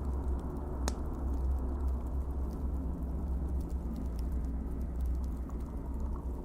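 Wood fire burning in a fireplace: scattered small crackles over a low steady rumble, with one sharper pop about a second in.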